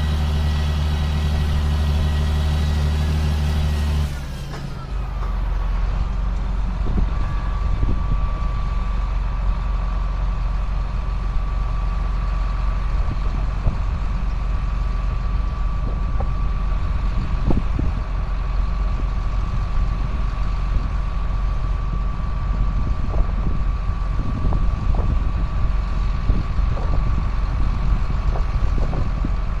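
John Deere self-propelled sprayer running: a steady engine hum that changes abruptly about four seconds in to a low rumble with scattered knocks and a thin, steady whine.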